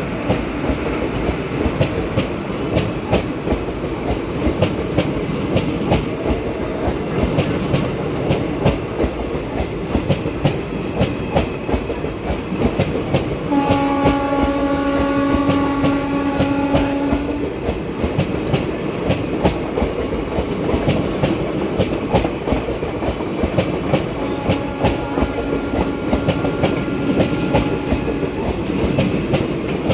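Express train running on the track, its wheels clicking over rail joints over a steady rumble. A train horn sounds for about four seconds midway, and a fainter horn sounds again later.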